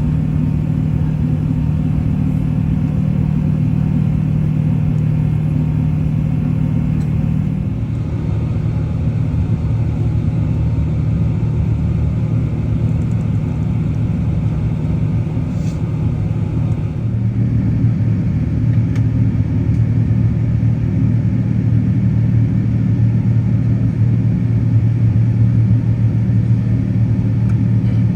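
Steady low rumble of cabin noise inside an Airbus A380 in flight: engine drone and rushing airflow. The low hum shifts in pitch twice, about 8 seconds in and again about halfway through.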